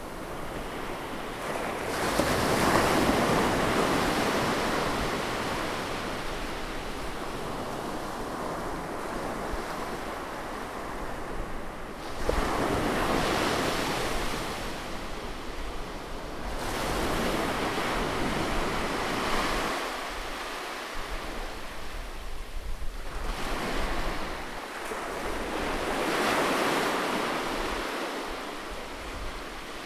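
Sea waves breaking close by on a shore, each one surging into a wash of surf and then drawing back. There are several waves, the strongest arriving about two seconds in and about twelve seconds in, with gentler ones every few seconds after.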